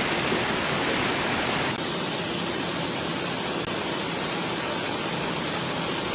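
Rushing floodwater: a steady, loud roar of water. The tone changes slightly just under two seconds in, as at a cut from one stretch of water to another.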